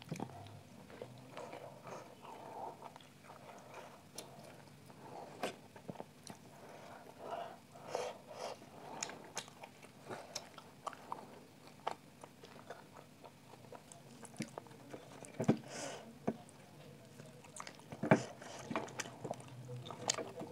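Close-miked eating sounds: a person chewing chicken, with wet mouth smacks and small clicks. A few sharper, louder clicks come about fifteen and eighteen seconds in.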